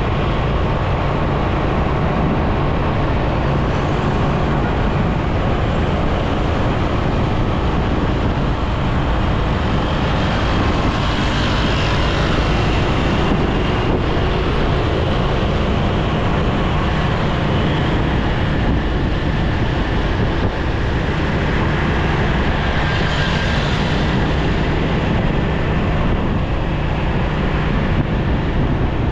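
Motorcycle riding through city traffic: steady engine hum and road noise under heavy wind rush on the microphone, with other vehicles swelling past twice.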